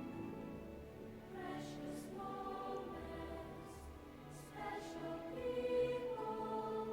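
Background music with a choir singing held, sustained notes.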